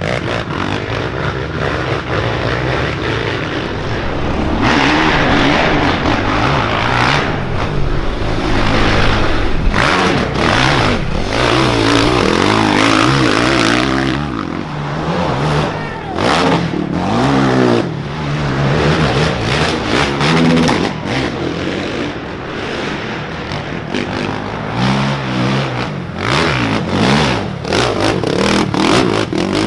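Off-road motorcycle engines running hard, the revs rising and falling repeatedly as the throttle is worked, with clicks and knocks throughout.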